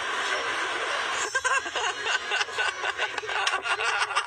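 Indistinct voices with light chuckling over a steady background hiss.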